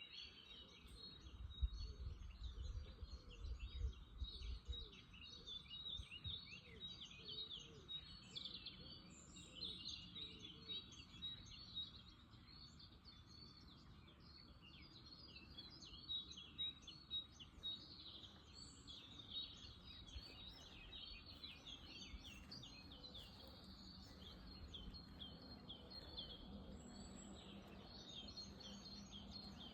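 Faint chorus of many small birds chirping and calling over one another, with a low rumble in the first few seconds.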